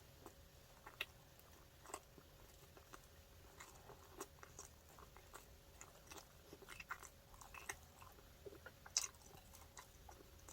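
Quiet, close-miked chewing of a chicken burger: scattered soft mouth clicks and small crunches, with one sharper click about nine seconds in.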